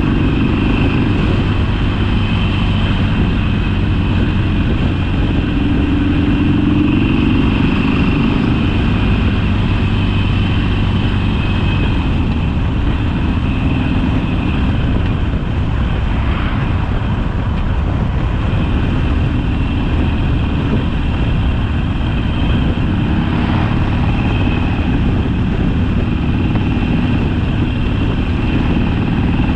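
Harley-Davidson Sportster's air-cooled V-twin engine running under way at a fairly steady speed, its pitch rising and falling slightly, over a steady rush of noise.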